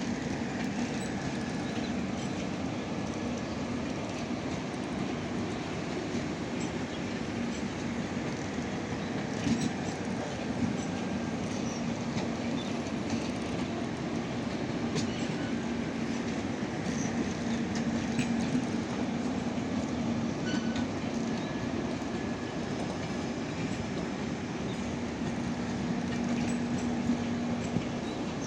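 Indian Railways passenger train running along the track: a steady rumble with a constant low hum and scattered sharp clicks of wheels over rail joints.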